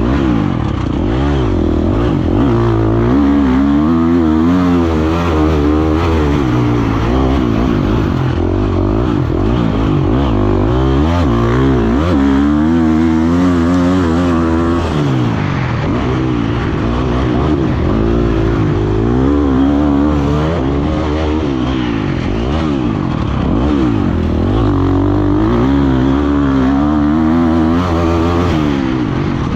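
Motocross bike engine revving up and dropping back over and over, the pitch rising and falling through gear changes while the bike is ridden around a dirt track.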